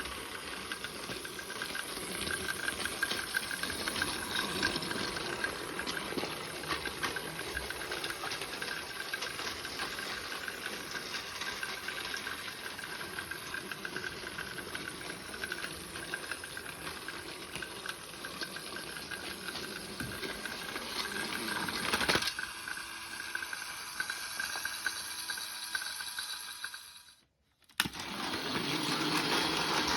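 Battery-powered Plarail toy train running on plastic track: a steady small-motor whine with rattling wheels. It fades to silence about 27 seconds in, and a louder run starts a second later.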